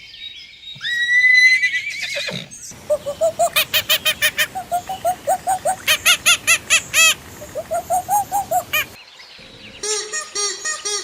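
Animal calls: a held high call, then a long run of rapid pitched calls at about four to five a second, and after a break near the end a different set of calls with chirps.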